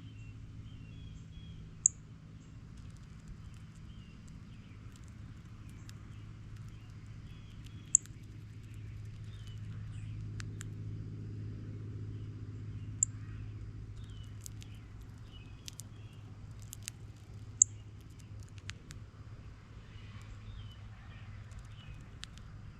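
Small birds chirping now and then over a steady low rumble of distant traffic, with four sharp clicks standing out.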